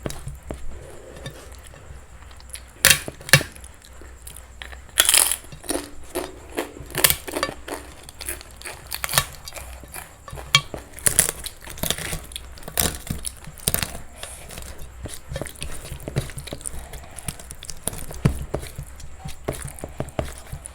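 Close-miked eating: crisp crunching bites and chewing, with irregular sharp crunches and wet mouth clicks, several of them much louder than the rest.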